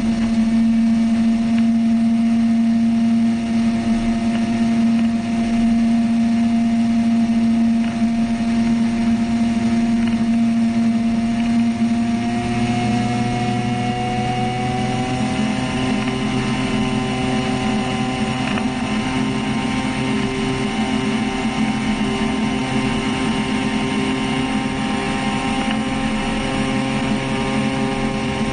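Small engine of a homemade flying boat, driving its propeller and running steadily at a constant speed. About halfway through, its note shifts and rises slightly as the engine speed changes.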